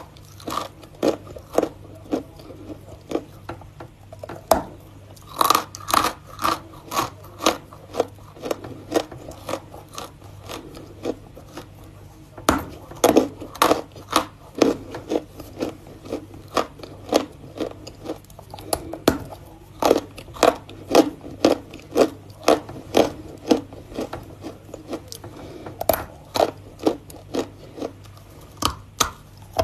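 A person crunching and chewing something hard and brittle between the teeth, close to the microphone: a long series of sharp crunches, sparser for a few seconds near the middle, then coming faster, over a faint steady low hum.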